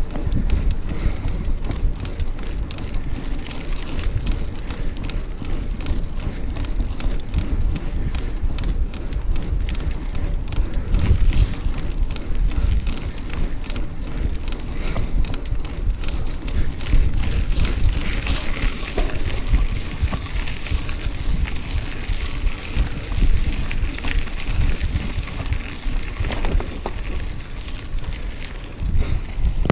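Bicycle riding over a rough trail: a dense crackle of tyres on loose ground with many small rattling clicks, over steady wind rumble on the microphone.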